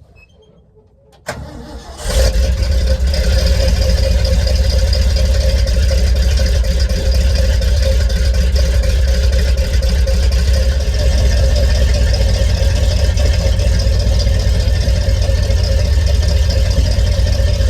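Truck engine cranked by the starter and catching about two seconds in, then running steadily at idle, loud and even.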